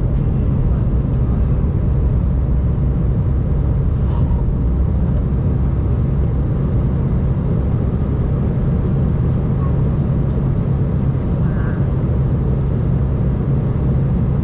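Steady low rumble of an Embraer E190-E2 airliner's engines and airflow, heard from inside the passenger cabin.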